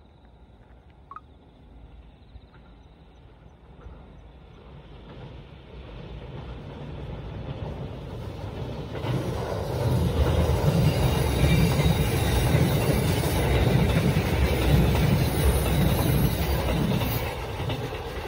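A train running on rails. Its rumble and wheel noise build up over the first ten seconds or so, then hold steady and ease off a little near the end.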